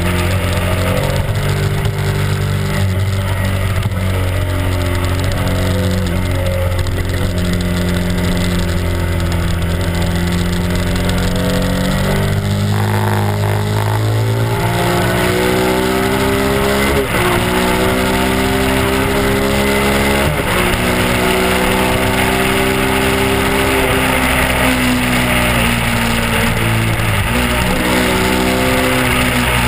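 Honda RC51's 999 cc V-twin engine running under way, its note climbing with the throttle and stepping down sharply twice past the middle at gear changes. A hiss of wind rush runs under it.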